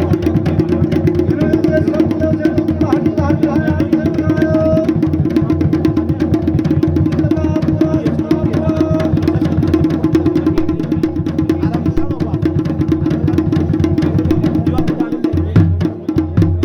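Traditional Garhwali drumming for the Pandava dance, typically played on dhol and damau: dense, fast strokes with a melodic line above them. The drumming dips briefly near the end, then comes back with heavier low beats.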